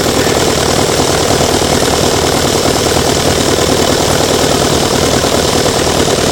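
Small model gasoline engine running steadily at a fast, even firing rate.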